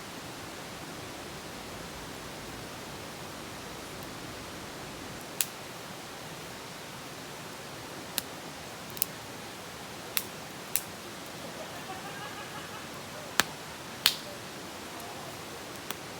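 Wood campfire crackling: about eight sharp, irregular pops from the burning wood over a steady hiss, the loudest two close together near the end.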